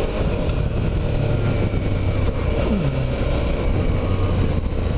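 Suzuki V-Strom 650's V-twin engine running as the motorcycle is ridden, its pitch dropping sharply about three seconds in.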